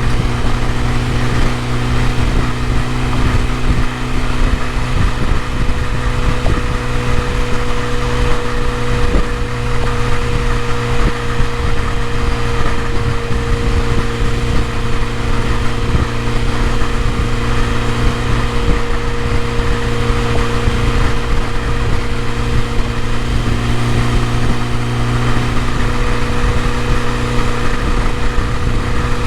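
BMW E30 M3's S14 inline-four engine idling steadily.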